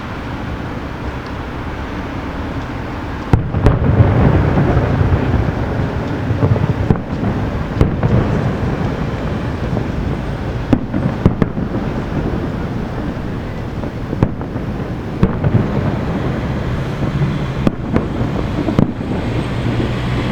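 Aerial fireworks shells bursting at a distance: a continuous low rumble of overlapping booms with sharper bangs every second or two, growing louder about three seconds in.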